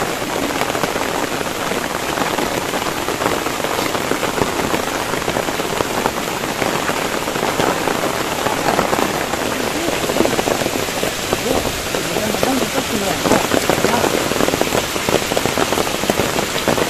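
Heavy rain falling, a dense steady patter of drops striking a surface close by.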